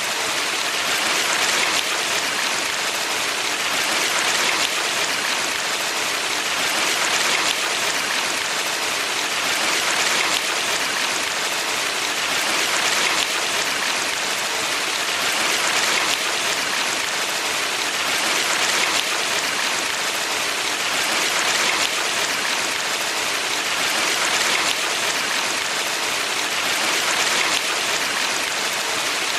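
Valley stream water running steadily: a dense, even rushing hiss that swells gently every few seconds.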